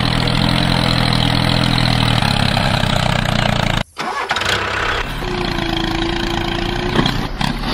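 An engine running steadily, breaking off sharply about four seconds in and followed by a different engine-like hum with a steady tone.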